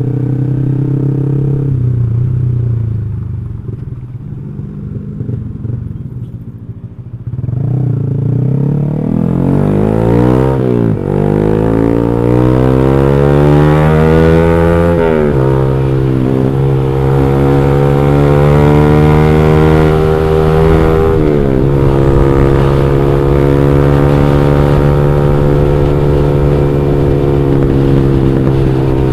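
Motorcycle exhaust through an aftermarket X1 Speed Pro One muffler with a fully packed silencer, on a tuned engine with a performance cam and raised compression. It runs quieter off the throttle for a few seconds, then revs up through the gears, the pitch climbing and dropping sharply at each of three shifts, before settling into a steady cruise.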